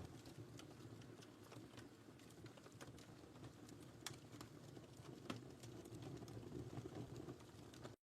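Wood fire crackling in a fireplace: a low, steady rumble of flames with frequent small pops and snaps, and two sharper pops about four and five seconds in.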